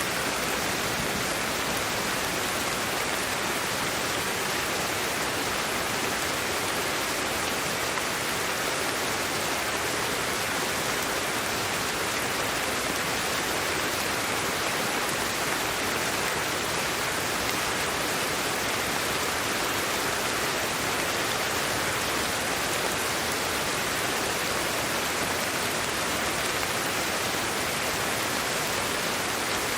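Steady sleep-aid white noise: an even, unchanging hiss with no breaks or rhythm.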